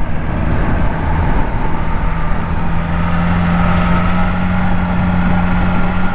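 Motorcycle engine running at steady revs while riding, its tone holding level after about a second and a half, under rushing wind and road noise.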